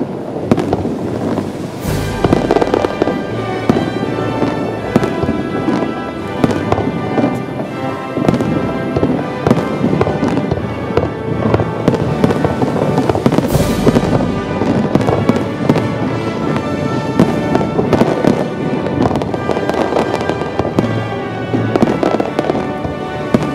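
Fireworks going off in quick succession, a dense run of bangs and crackles over music, with two especially heavy deep booms, one about two seconds in and one about halfway through.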